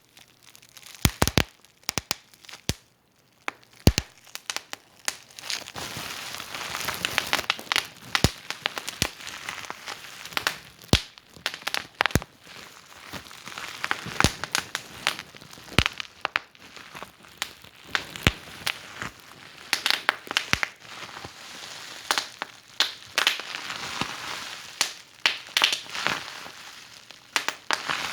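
Wood fire in a fireplace crackling: irregular sharp pops and snaps over a soft hiss, with a short quieter lull about three seconds in.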